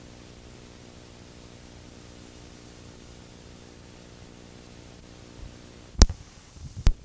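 Steady electrical hum and hiss, broken near the end by two sharp knocks less than a second apart.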